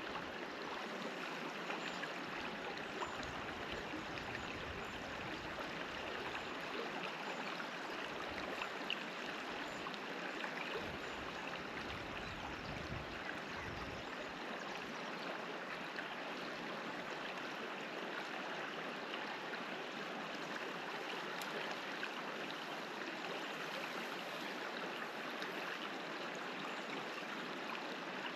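River water flowing over rocks, a steady, even rush of water.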